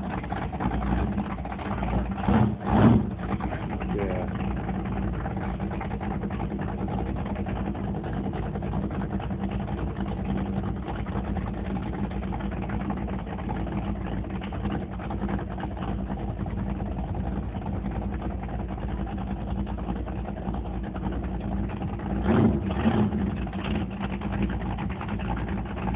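A 1977 Tahiti jet boat's 489 big-block Chevy stroker V8 idling steadily, with brief louder swells about two to three seconds in and again near the end.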